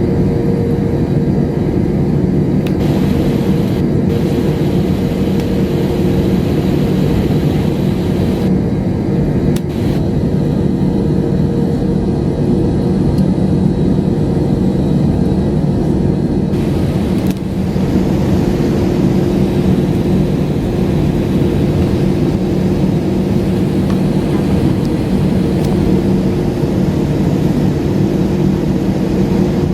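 Jet airliner cabin noise: the engines and airflow make a steady, loud rumble and hum, with small shifts in the hiss at a few points.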